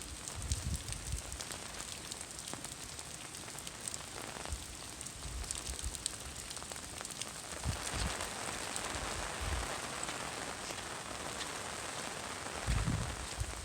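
Steady rain falling and pattering on surfaces, with many small drop ticks, and a few low thumps scattered through.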